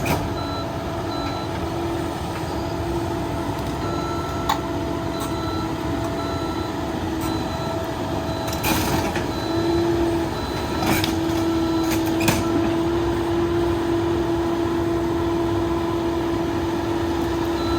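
Caterpillar 308 excavator running under work, a steady engine hum with a whine that grows louder about ten seconds in. A few sharp knocks and cracks sound over it now and then.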